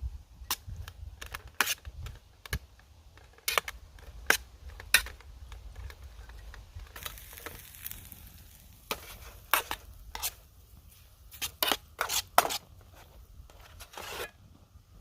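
Camp cooking gear being handled: a string of sharp clicks and light metal knocks, with a brief rustle about seven seconds in.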